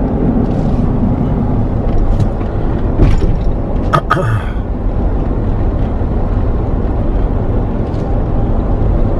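Steady road and engine rumble of a car driving, heard from inside the cabin, with a brief sharp sound about four seconds in.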